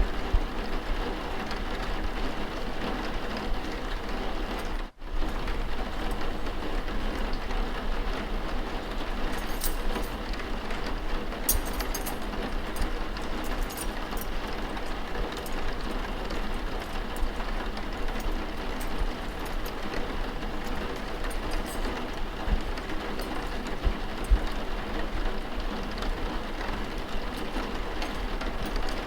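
Steady rain ambience, an even wash of rainfall noise with faint scattered ticks. It cuts out for a split second about five seconds in.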